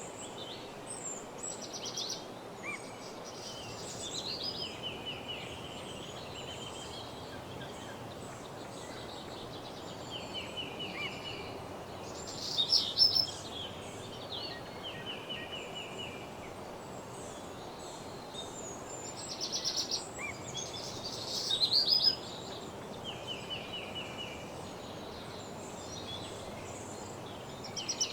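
Several songbirds singing in woodland, repeating short trilled phrases and quick whistled notes, with louder bursts about a third and three-quarters of the way through and at the end, over a steady background hiss.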